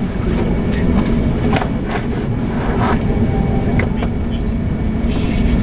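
Steady low rumble inside the passenger cabin of an Airbus A380, with scattered light knocks and rattles over it.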